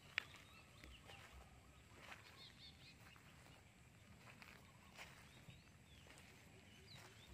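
Quiet outdoor ambience with faint, short bird chirps at intervals and one sharp click just after the start.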